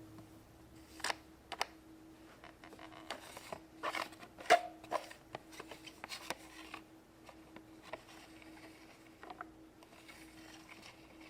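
Light clicks and taps of small toy figures being handled on a tabletop, scattered and irregular, over a faint steady hum.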